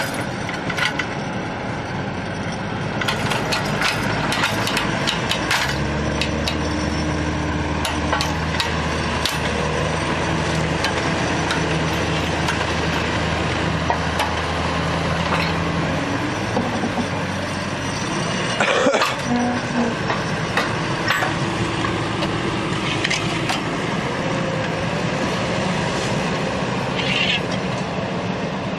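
Heavy vehicle engine running over outdoor noise, with a steady hum for about ten seconds in the middle and scattered knocks and clatter.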